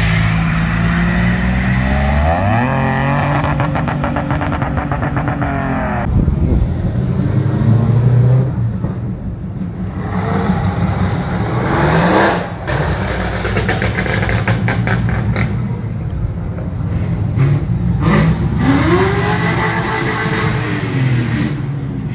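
Petrol car engines revving and accelerating hard, their pitch climbing in steps, with another engine revving up and back down near the end.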